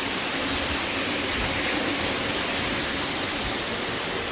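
Steady rush of the Diamante waterfall: an even, unbroken hiss of falling water.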